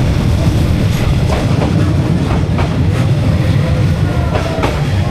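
A train rolling past close by: a loud, steady low rumble with repeated clicks of the wheels over the rail joints.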